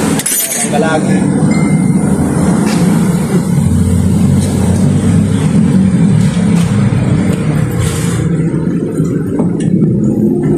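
Toyota Revo's 7K engine running steadily at idle.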